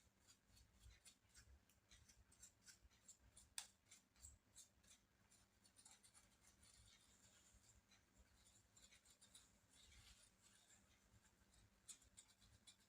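Faint scattered clicks and light scraping from small laptop parts being handled during disassembly, barely above near silence, with one sharper click about three and a half seconds in.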